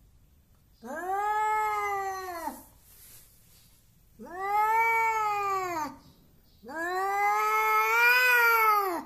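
An angry domestic cat gives three long, drawn-out threat yowls. Each rises and then falls in pitch, and the last is the longest and loudest.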